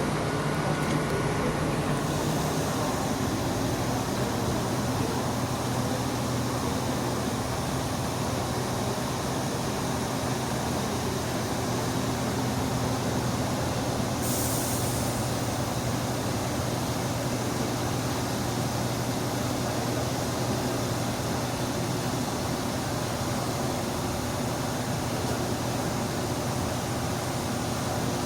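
Heavy diesel vehicle engine running with a steady low hum, with a short hiss of released air about fourteen seconds in.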